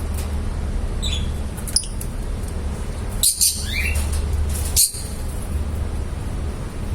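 Lovebirds giving a few short, sharp chirps and squawks, one of them rising in pitch, over a steady low hum.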